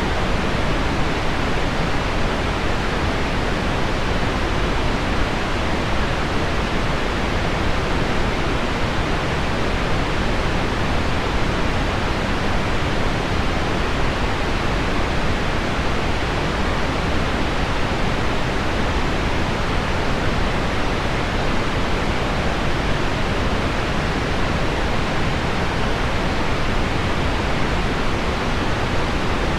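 Steady, unchanging pink noise blended with heavy rain on window glass. It is an even wash with no separate drops standing out, full in the lows and softer in the highs.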